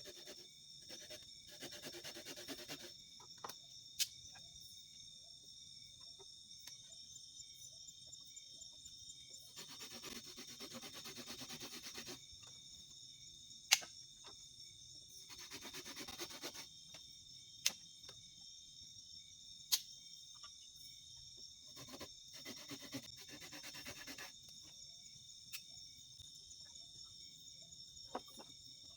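Faint, steady chorus of crickets and other insects in forest, several high tones held without a break. Over it come four stretches of rustling or scraping, each a second or more long, and a handful of sharp clicks.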